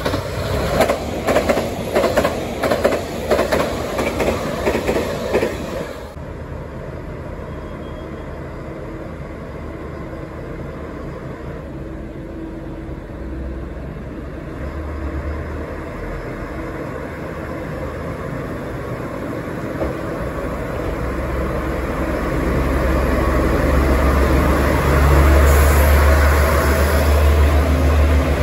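A JR Kyushu 883 series electric express passes at speed, its wheels clattering over rail joints for about six seconds. Then a diesel railcar pulls away from the platform, its engine rumble building and growing louder as it rolls past near the end.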